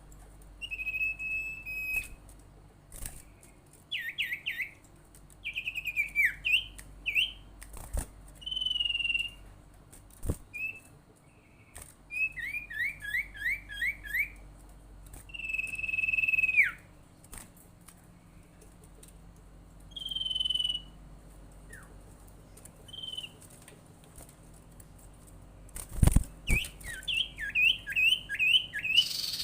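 Sirtu, a kind of iora, singing in separate phrases with pauses between them. The phrases alternate between quick trills of short slurred whistles and drawn-out whistles that bend down at the end. A couple of sharp clicks sound about eight seconds in and near the end.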